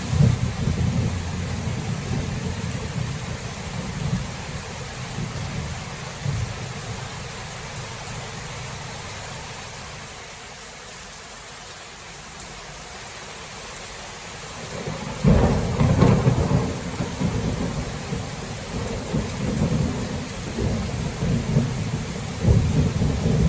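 Thunderstorm: steady rain with rolling thunder. The thunder fades to a lull about halfway through, then a sharp, loud clap comes about 15 seconds in and rumbles on, with further rolls near the end.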